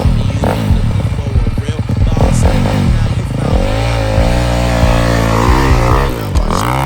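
Honda CRF250 dirt bike's four-stroke single-cylinder engine pulling away, uneven and low at first, then revving up about three seconds in and held high, easing off briefly near the end before rising again.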